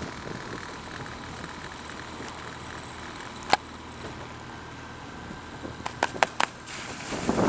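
Coaching launch's outboard motor running steadily at low speed, with a sharp knock about three and a half seconds in and a quick run of knocks around six seconds. Wind rushes over the microphone near the end.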